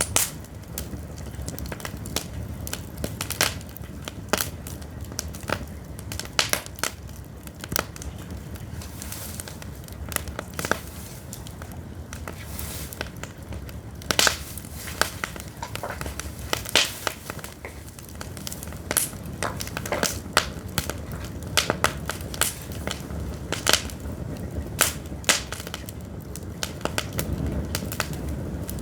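Pine firewood burning in an open fire, crackling with irregular sharp pops and snaps, sometimes several in a second, over a steady low background.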